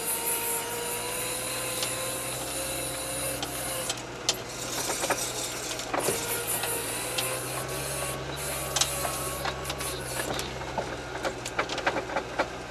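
All-terrain vehicle's engine and drivetrain working under load as it churns through deep snow with the rear differential locked, with a steady whine and scattered knocks and crackles.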